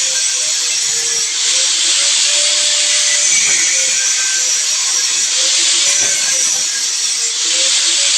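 Power sprayer running: a steady motor tone under a loud hiss of spray that swells and eases every couple of seconds.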